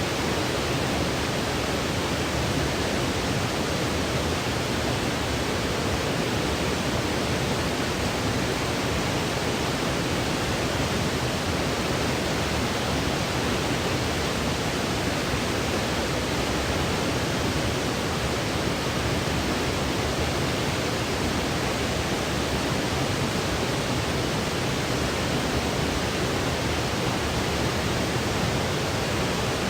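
Steady, unchanging hiss of generated white noise played as a sleep aid, with no breaks or changes in level.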